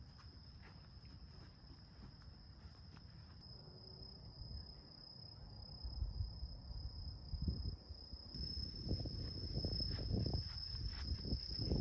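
An insect trilling steadily at one high pitch, with low rustling and knocking sounds that grow louder over the second half.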